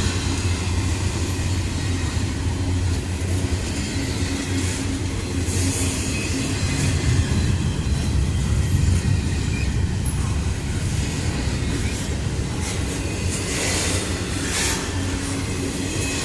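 Norfolk Southern freight train rolling past with a continuous low rumble from the cars on the rails. A few short clicks come through, around five seconds in and again near the end.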